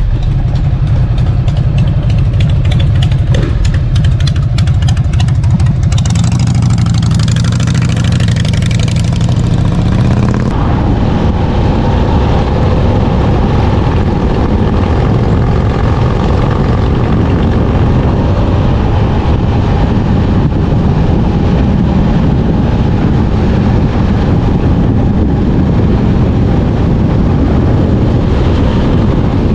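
Harley-Davidson Dyna's V-twin engine running loud, with a rising rev about eight to ten seconds in. Just after ten seconds the sound changes abruptly to a steadier, hissier noise.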